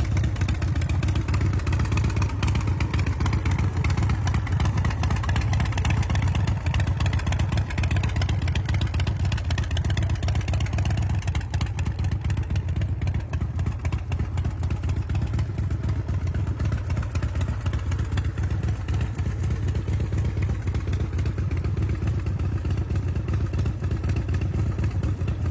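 Big Dog DT Chopper's 117 cubic inch S&S V-twin engine running steadily, with a fast, even pulse of exhaust beats and no revving.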